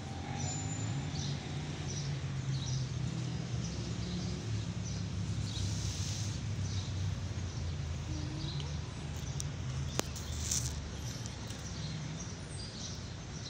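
Birds chirping here and there over a steady low hum, with one sharp click about ten seconds in.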